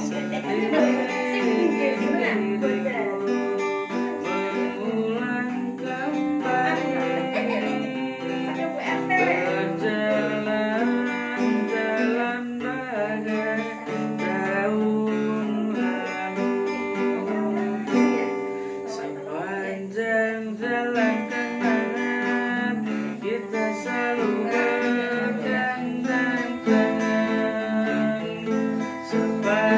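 Acoustic guitar music: strummed chords under a melody line that bends in pitch, an instrumental passage between sung lines of a song.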